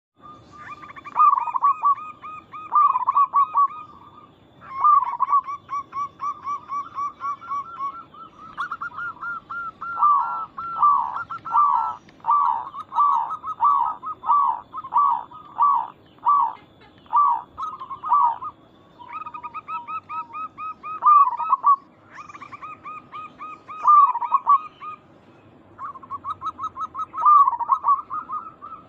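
Zebra doves (perkutut) cooing, used as a lure call. Short runs of rapid, rolling coos repeat over and over. In the middle comes a stretch of separate, louder coos about twice a second.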